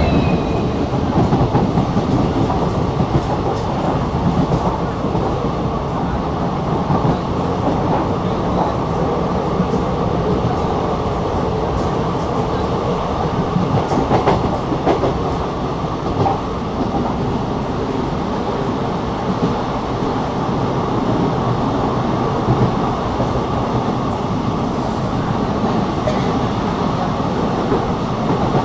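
Indian Railways passenger train rolling along, heard from beside a coach: a steady rumble of wheels on rail with occasional clicks from rail joints.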